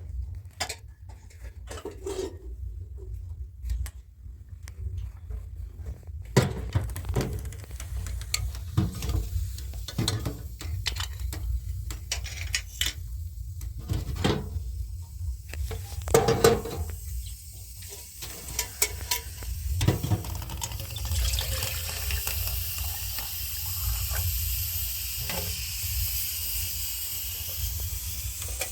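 Bowls or pots clattering and knocking as they are handled, then, about two-thirds of the way in, a steady hiss of running or pouring water.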